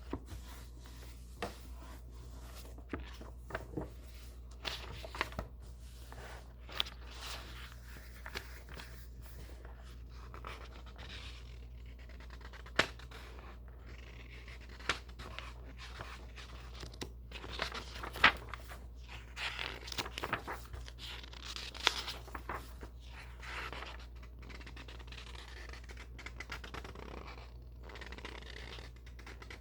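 Book pages being turned and handled: paper rustling and swishing, with scattered sharp taps and clicks at irregular moments, busiest a little past the middle. A faint steady low hum runs underneath.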